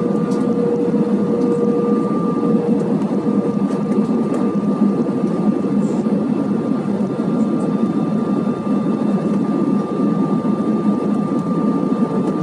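Steady cabin noise inside an Airbus A320 airliner in flight: a constant drone of engines and airflow, with a thin steady whine and a lower tone that fades out about three seconds in.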